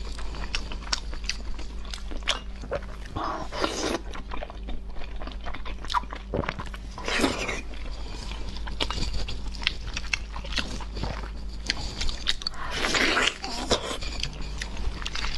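Close-miked wet chewing and lip-smacking on sticky braised pork knuckle skin and meat, with many small clicks and a few louder, longer wet noises about four, seven and thirteen seconds in.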